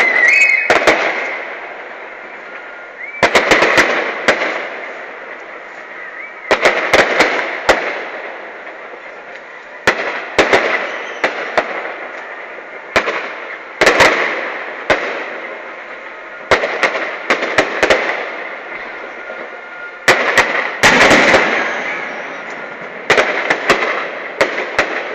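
Fireworks display: aerial shells bursting in clusters of sharp bangs and crackles about every three seconds, eight times, each dying away in echo. The biggest burst comes about twenty seconds in.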